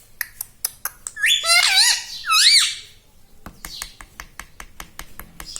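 Pet talking parrot giving two loud, wavering squawks about a second and two seconds in, among many short sharp clicks that come fast in the second half.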